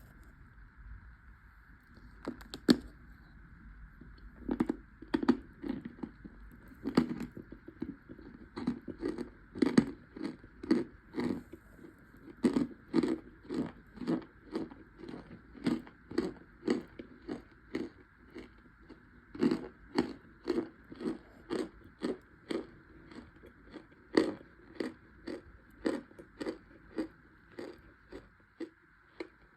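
Close-up chewing of toasted cornstarch chunks: a steady run of sharp crunches, a little more than one a second, that starts a couple of seconds in and eases off near the end.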